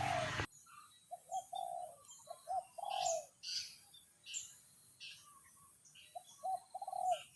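A dove cooing in two short rhythmic phrases, one near the start and one near the end, with small birds chirping faintly at a higher pitch.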